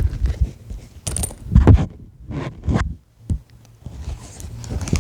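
Handling noises: a few irregular rustles and scrapes with low knocks, clustered about one to three seconds in.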